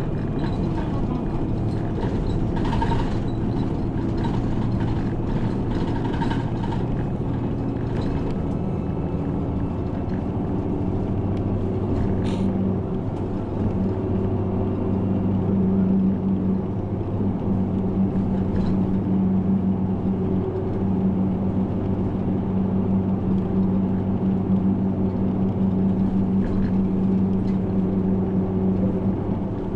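Route bus engine running with road noise, heard from inside the passenger cabin. The engine's hum shifts to a lower, steady note about ten seconds in, with a short sharp click shortly after.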